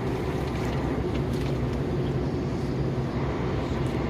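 KAMAZ truck engine and road noise heard from inside the cab while driving, a steady low drone.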